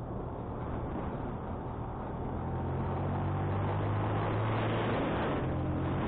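Motorcycle engine running at a steady pitch under heavy wind noise on the microphone. The wind noise grows louder from about halfway through.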